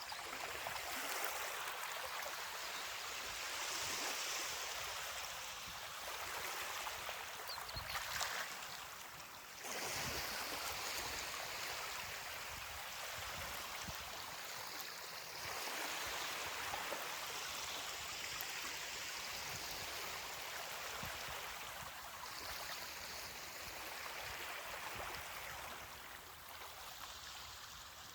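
Gentle ocean surf washing up a beach, a steady hiss of water that swells and eases every several seconds as each wave comes in.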